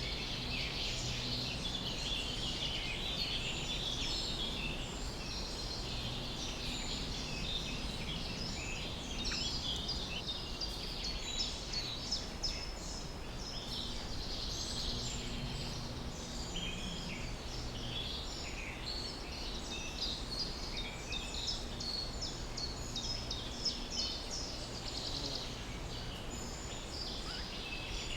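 Many small birds chirping and singing over one another in a continuous chorus, with a faint steady low hum underneath.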